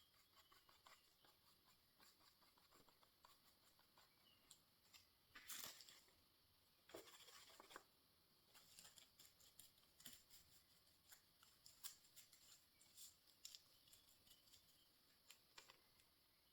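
Faint handling of tissue paper at a craft table: scattered light ticks and rustles, with two brief louder rustles about five and a half and seven seconds in.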